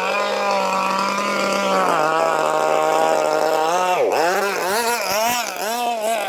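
Zenoah G260PUM single-cylinder two-stroke petrol engine of a radio-controlled boat, running at high revs with a steady pitch. About two seconds in it settles a little lower, and in the second half its pitch swings quickly up and down, several times a second.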